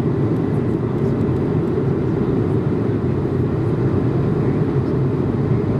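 Steady low rumble of cabin noise inside an Airbus A220-300 airliner, the airflow and engine sound heard from a passenger seat.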